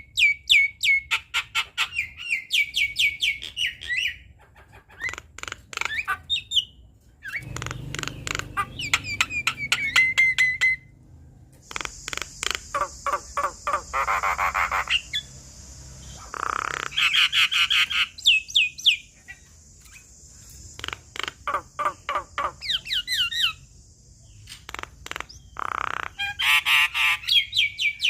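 Javan myna singing a long, varied song of rapid clicking rattles, squawks and falling whistled notes. A steady high hiss runs through the middle.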